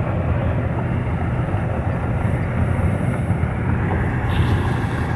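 Steady road and engine noise inside a moving car: a low rumble with tyre hiss, the hiss growing brighter a little past four seconds in.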